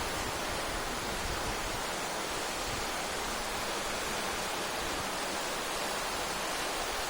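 Sea surf breaking and washing ashore, a steady even rush with no single wave standing out.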